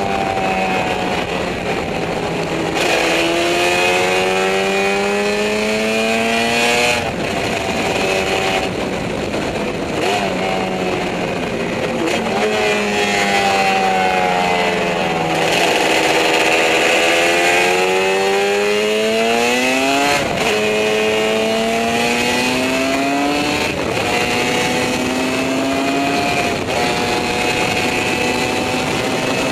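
Yamaha RD 750 two-stroke racing motorcycle engine heard from on board at full race pace. Its pitch climbs steadily through each gear and drops sharply at every upshift. Once, midway, the pitch sags as the rider eases off into a bend, then climbs again.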